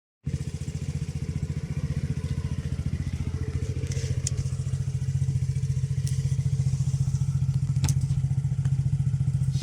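The Nissan Serena's 2.5-litre QR25 four-cylinder engine starts up and runs at a steady, evenly pulsing idle, with a couple of light clicks.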